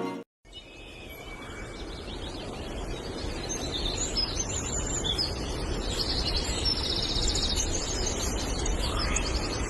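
Birds chirping over a steady outdoor background noise that slowly grows louder.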